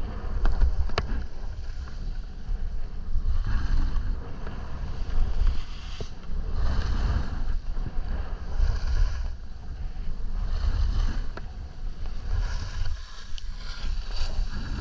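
Wind buffeting the microphone during a descent of a mogul run, with a hiss of snow swelling and fading on each turn, roughly every two seconds.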